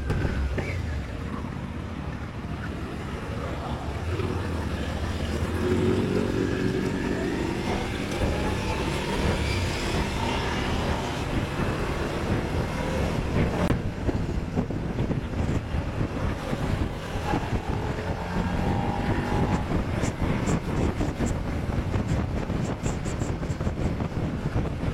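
Motorcycle engine running while riding, its pitch rising and falling as it accelerates, with steady wind noise over it.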